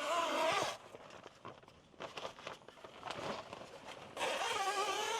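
Fabric scissors slicing through vinyl-backed blackout fabric in long cuts, each a rasping hiss with a wavering squeal. One cut ends just under a second in, and another starts about four seconds in. In between there are faint snips and rustling of the material.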